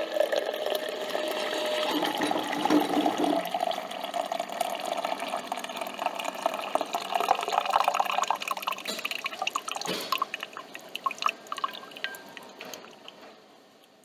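Coffee machine dispensing coffee into a cup: a liquid stream splashing and trickling that thins out in the second half and tapers off to drips near the end.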